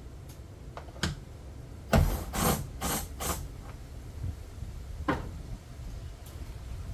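Hand-work noises while 10 mm fasteners on a car's tail light mounting are unscrewed by hand: a few small clicks and knocks, with a short run of loud rubbing and knocking strokes about two seconds in.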